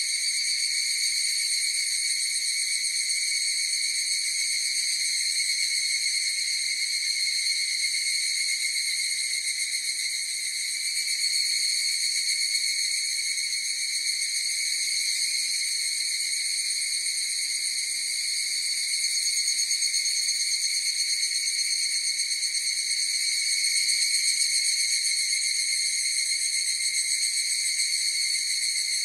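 Chorus of higurashi (evening cicadas, Tanna japonensis) calling, blending into one steady, unbroken high trill that swells and eases slightly in loudness.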